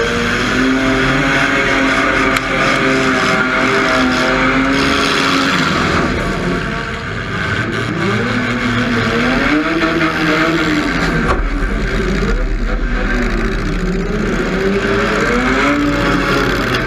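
Demolition derby car engine revving up and down again and again as the car charges and backs around, with a couple of sharp knocks from hits.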